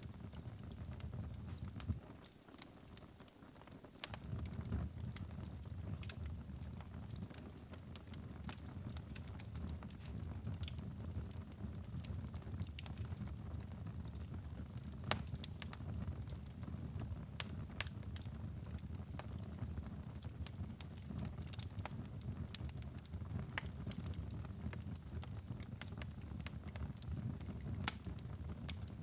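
Fire burning in a fireplace: a steady low rumble of flame with frequent sharp, irregular crackles and pops. The rumble drops away briefly about two seconds in, then returns.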